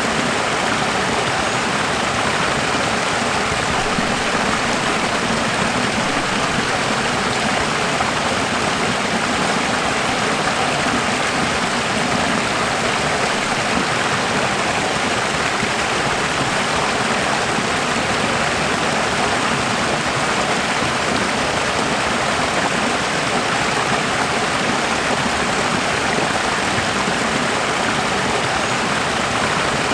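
Running water: a steady, unbroken rushing of a stream, even in level throughout.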